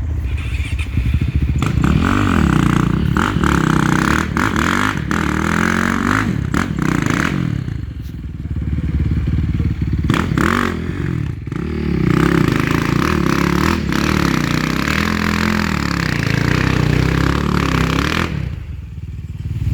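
Enduro motorcycle engine revving up and down again and again, with scattered clattering knocks, typical of a bike fighting its way up a difficult climb.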